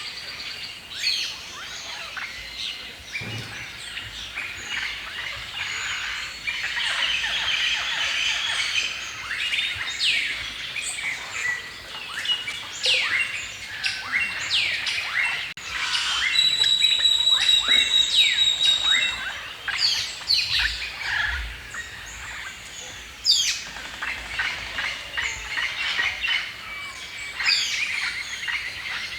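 Several songbirds chirping and singing at once, a dense mix of quick overlapping chirps and trills. About halfway through the chorus gets louder, and a steady high whistle is held for a few seconds.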